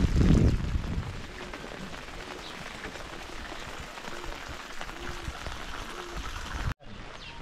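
Steady rain falling, with a louder, deeper rumble in the first second; the sound breaks off for an instant near the end.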